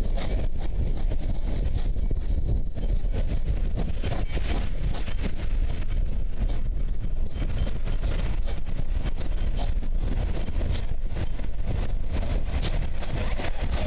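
Passenger carriages of a steam-hauled train rolling past on the rails: a steady rumble with many short clacks of wheels over the track.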